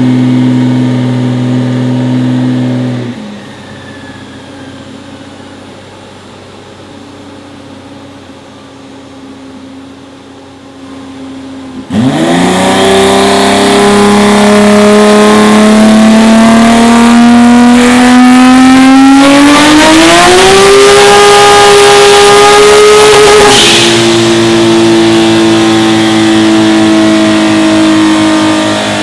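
Turbocharged BMW M3 drag car engine making a wide-open-throttle pull on a chassis dyno. After a few seconds of steady running and then quieter idling, the engine comes on hard about twelve seconds in, its pitch climbing steadily for about eleven seconds before the throttle is lifted and it drops to a steady lower note.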